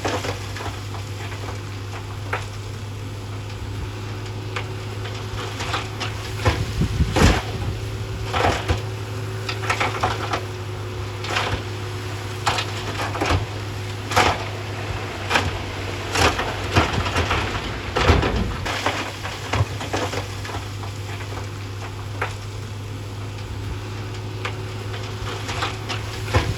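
Heavy earthmoving machinery at work: a diesel engine runs steadily under irregular sharp cracks and knocks, thickest through the middle, as rock and fill are crushed and shifted.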